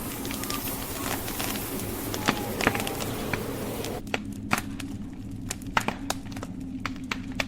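Wood fire crackling, with frequent sharp pops and snaps over a steady low rumble of flames. A hissing blizzard wind runs under it and cuts off suddenly about four seconds in, leaving the crackle on its own.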